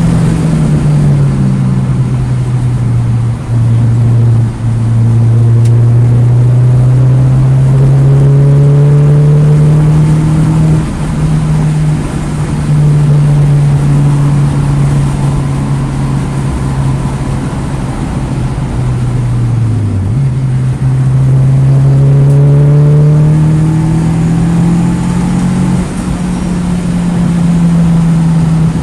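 2009 Mini Cooper S (R56) 1.6-litre turbocharged four-cylinder engine under hard track driving. Its pitch climbs steadily under acceleration, sags as the car slows for a corner, then climbs again, with brief dips at gear changes and lifts.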